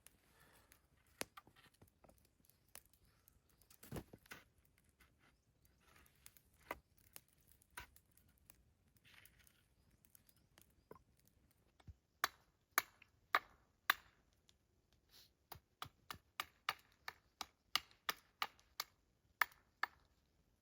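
Sharp knocks and taps, scattered at first, then a quicker run of crisp chopping strokes from a little past the middle, about two to three a second.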